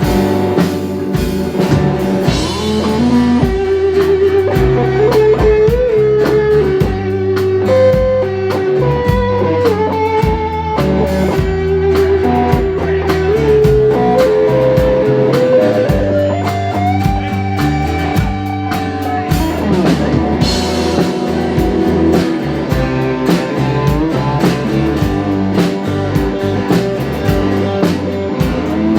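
Live blues-rock band playing an instrumental break: a lead electric guitar solo with bent notes over bass and a drum kit.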